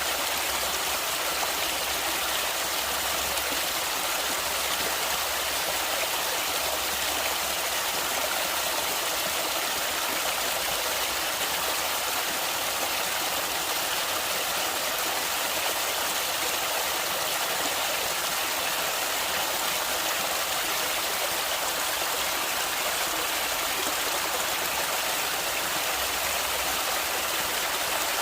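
Flowing stream water: a steady, unbroken rush of running water.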